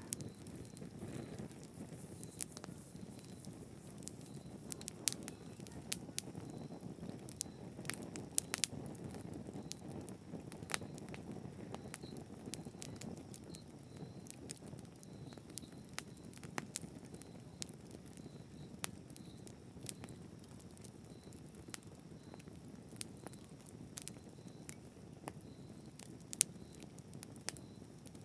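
Campfire burning: a low steady rush of flames with frequent sharp, irregular crackles and pops of burning wood, a few louder pops standing out.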